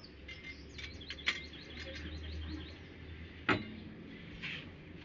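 A quick run of high bird chirps lasting a couple of seconds, with two sharp clicks, one about a second in and one about three and a half seconds in, which are the loudest sounds. A low steady hum sits underneath.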